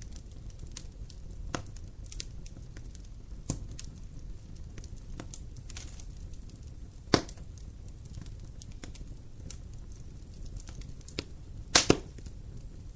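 Wood fire crackling in a fireplace over a low steady rumble. Scattered small snaps are heard, with sharper pops about a second and a half in, at three and a half seconds, and at seven seconds, and the loudest is a quick double pop near the end.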